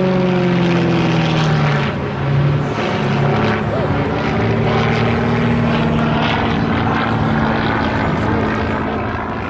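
Piston engine and propeller of an aerobatic display plane passing overhead: its pitch drops as it moves away over about the first second and a half, then the engine drones on steadily.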